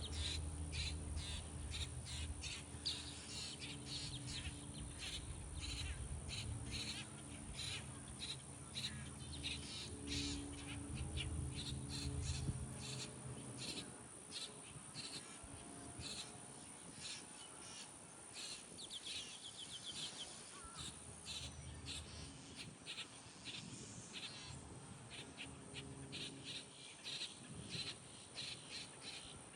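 Grackles calling at a nest during feeding: a long run of short, rapid calls, denser in the first half and thinning out later. A low steady hum lies under the first half and stops about thirteen seconds in.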